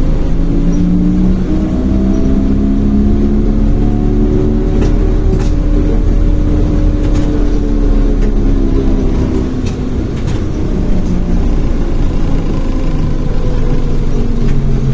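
ZiU-682 trolleybus under way, heard from on board: the traction motor's whine slowly rises in pitch over the first half and then falls away, over a steady running rumble, with a few sharp clicks around the middle.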